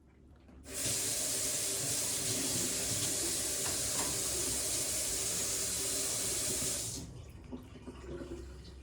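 Water running steadily. It starts suddenly under a second in and stops about seven seconds in, followed by a few faint drips or clicks.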